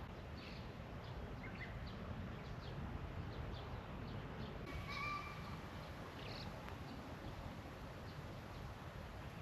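Low outdoor background noise with scattered faint short chirps, and one brief whistle-like call about five seconds in.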